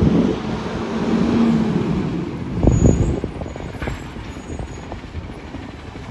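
McNeilus Autoreach garbage truck running with a steady engine note, which fades after a short burst of clunks and knocks about three seconds in.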